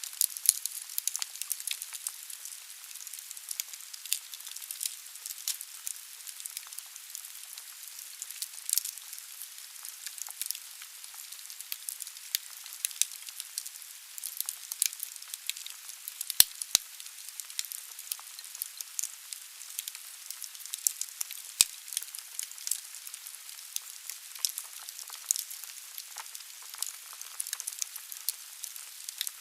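Wood fire burning in a fireplace: logs crackling and popping irregularly over a steady hiss of flame, with a few sharper cracks around the middle.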